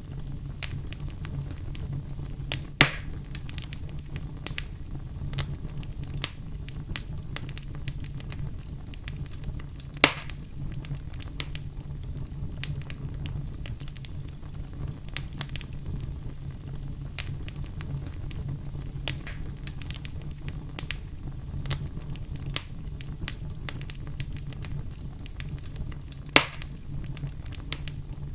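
Wood fire crackling in a fireplace over a steady low rumble of the flames, with frequent small snaps and three sharper pops, about 3, 10 and 26 seconds in.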